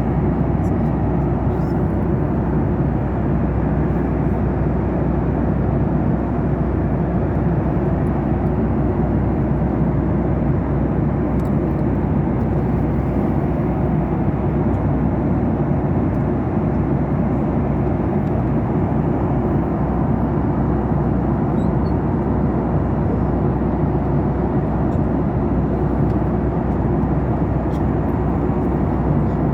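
Steady low drone of an airliner cabin in flight: engine and airflow noise inside the passenger cabin, even and unchanging throughout.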